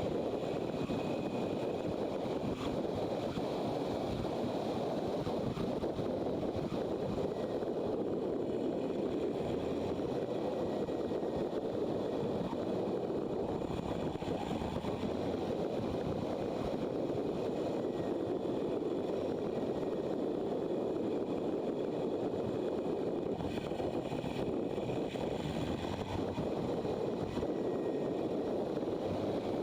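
Motorcycle on the move: a steady rush of wind noise mixed with engine and road noise, even in level with no revving or gear changes standing out.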